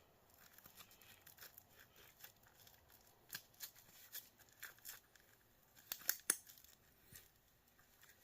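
Small plastic and metal parts of a dismantled electric heater being cut and pried with hand tools: a scatter of light clicks and snips, with two sharper snaps about six seconds in.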